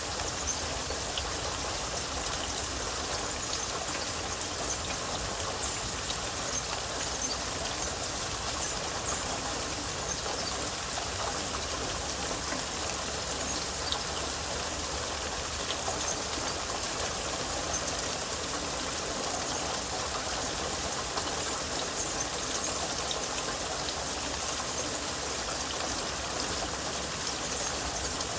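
Steady rain falling, a constant hiss with scattered single drops ticking through it.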